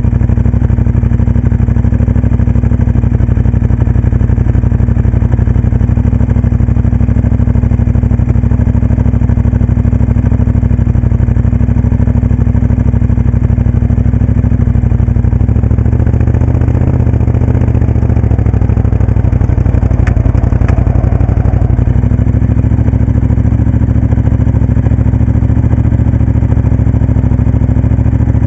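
Moto Guzzi Café Sport's V-twin engine running steadily, loud and close, with small changes in engine speed about two-thirds of the way in.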